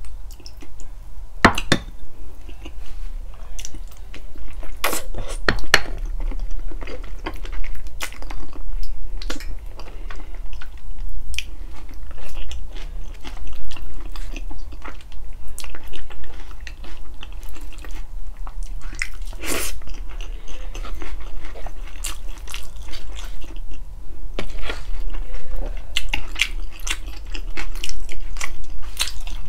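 Close-miked chewing and biting on stewed pork feet, with irregular short clicks and smacks several times a second over a low steady hum.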